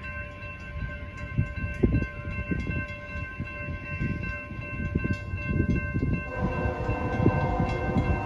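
CSX freight diesel locomotive horn sounding a long, steady chord over the low rumble of the approaching train. The horn's chord changes and gets fuller about six seconds in.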